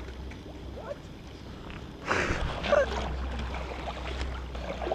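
Creek water running, with a steady low rumble of wind on the microphone. There is a brief knock and a faint voice a little past the middle.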